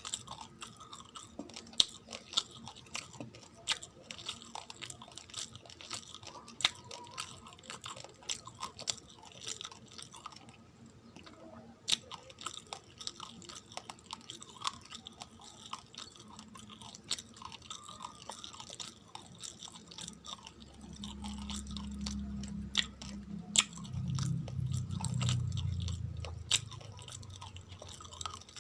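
Close-miked chewing and crunching of hard, uncooked rice grains, with many sharp crisp cracks as the grains break between the teeth. A low rumble comes in about twenty seconds in and lasts for several seconds.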